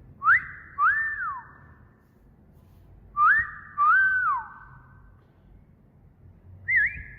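Wolf whistle, whistled twice: a quick rising note, then a longer note that rises, holds and drops away. Another whistle begins near the end.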